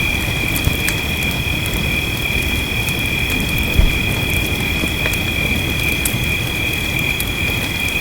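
Wood fire crackling with scattered sharp pops over a steady rush of rain, with a constant high-pitched trill running beneath. A single low thump comes just under four seconds in.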